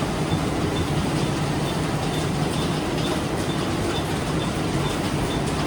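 A train running at the platform, a steady, unbroken rumble of wheels and running gear.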